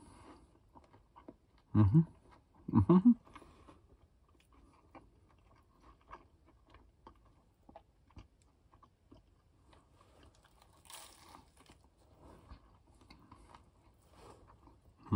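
A man chewing a mouthful of toasted patty melt: faint, moist chewing with small clicks throughout. About two and three seconds in come two short, loud hums of enjoyment, and there is a brief breath about eleven seconds in.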